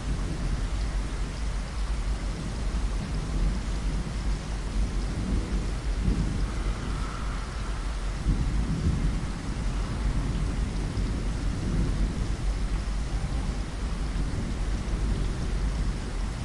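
Steady rain falling against a window glass, with a low rumble underneath that swells about halfway through.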